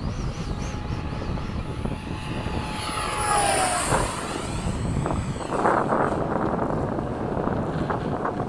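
70mm electric ducted-fan model jet making a fast pass. Its fan whine and rushing air swell to a peak a little over three seconds in, and the whine drops in pitch as the jet goes by, then fades.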